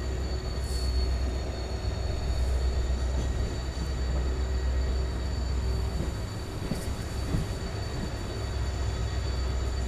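Passenger train running, heard from on board: a steady low rumble.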